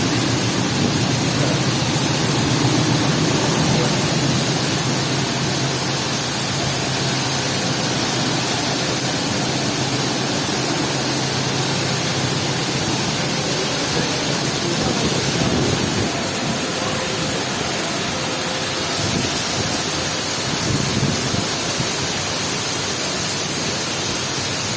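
Heavy rain pouring steadily, a dense even hiss, with a low rumble through the first half that fades away.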